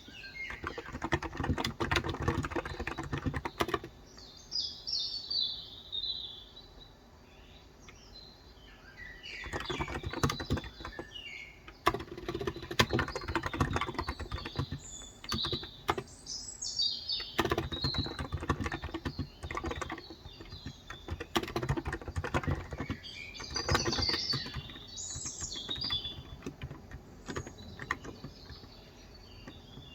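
Typing on a COX Endeavor electro-capacitive (Topre-style) 35 g tenkeyless keyboard, in fast runs of keystrokes broken by pauses of a few seconds. Small birds chirp and twitter throughout.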